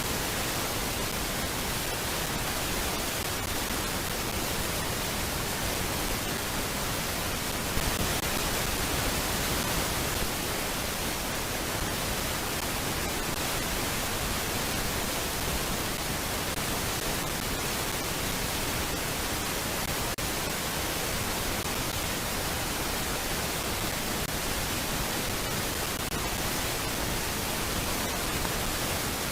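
Steady, even static hiss with no distinct sounds in it, such as comes from a nest camera's microphone feed.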